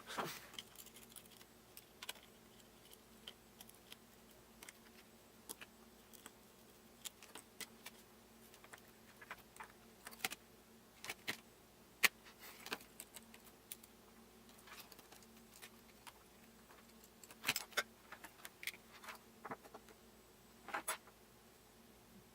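Irregular light clicks and small metallic taps from handling small tools and phone parts at a repair bench, over a faint steady hum. A few louder clicks come about halfway through and again near the end.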